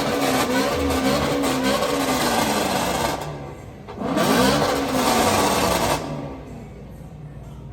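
A car engine revving again and again, its pitch rising and falling, with a short lull in the middle and a final rev that falls away about six seconds in.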